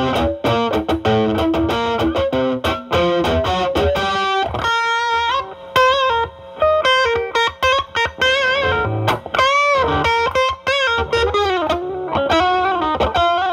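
Electric guitar (Stratocaster) through a Ceriatone Centura Klon-style overdrive pedal into a Marshall Valvestate amp's drive channel, playing a blues lead: a quick run of picked notes, then held notes with vibrato and string bends about halfway in. The pedal's gain is set high with the guitar's volume rolled back, so the overdrive is cleaned up.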